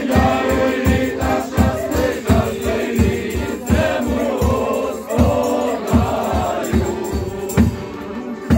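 A group of Malanka carolers singing a folk New Year carol (shchedrivka) together over a steady low beat of about two strokes a second.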